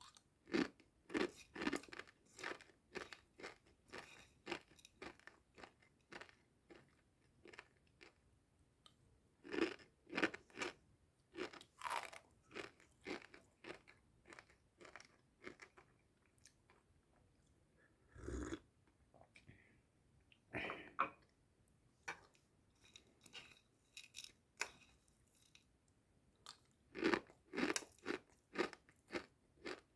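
Close-miked crunchy chewing of dry Wai Wai instant noodles: crisp crunches come a few a second in bursts, with short pauses between mouthfuls. There is one dull thump about eighteen seconds in.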